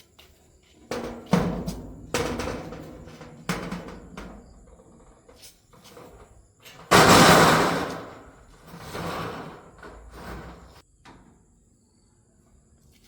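Irregular knocks and thuds of hand building work, with a longer, louder crashing rush about seven seconds in and two softer ones after it.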